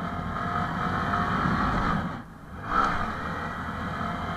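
Honda MSX SF minibike's single-cylinder engine running under throttle while riding. The throttle is eased off briefly about two seconds in, then opened again.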